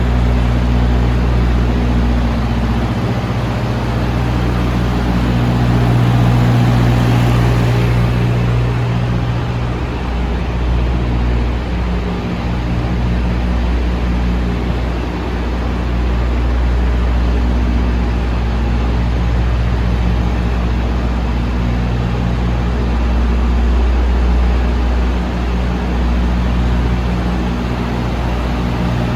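Heavy diesel engine idling steadily, its note swelling slightly for a few seconds near the start.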